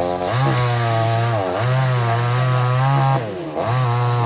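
Chainsaw cutting through a coconut tree trunk, its engine running at high revs with its pitch dipping now and then. About three seconds in it drops off the throttle briefly, then revs back up.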